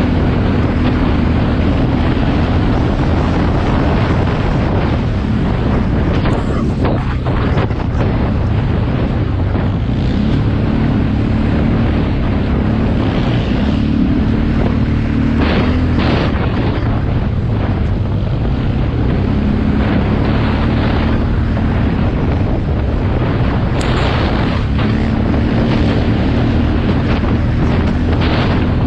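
Motocross bike engine running with its pitch rising and falling, partly buried under heavy wind noise on the microphone.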